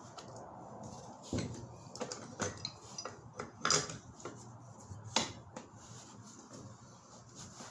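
Scattered sharp clinks and knocks of metal tools or pipe fittings being handled, about five strikes, the loudest two a little past the middle.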